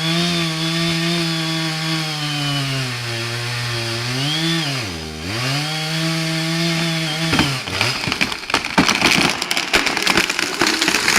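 Chainsaw running at high speed, its pitch dipping briefly about five seconds in and then recovering. The saw cuts off a little past halfway, followed by a few seconds of loud, irregular cracking and crashing as the felled tree comes down.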